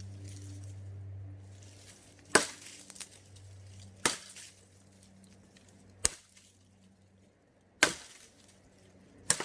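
Fallen deadwood being chopped for firewood: five sharp chopping strikes, roughly one every one and a half to two seconds.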